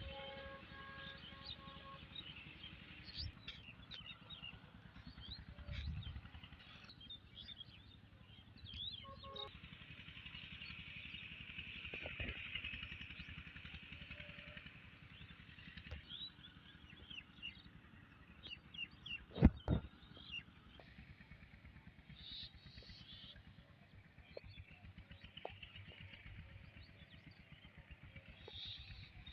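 Small birds chirping and twittering, many short calls overlapping, over a steady low rumble. A single sharp knock stands out about two-thirds of the way through.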